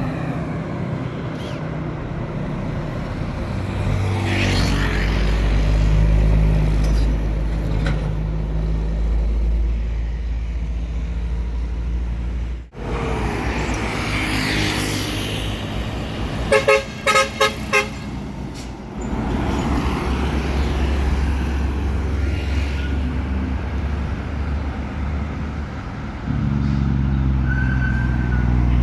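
Heavy truck engine running steadily on the road, with a quick series of about five short horn toots about two-thirds of the way through.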